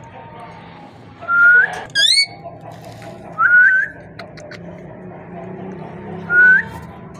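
Pet parrot whistling: short notes that slide upward in pitch, four times, with a longer pause before the last.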